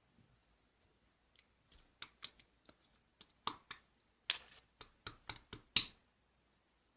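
Slime being pressed and stretched by hand, giving a run of about a dozen sharp, irregular clicks and pops. They start about two seconds in and stop about a second before the end.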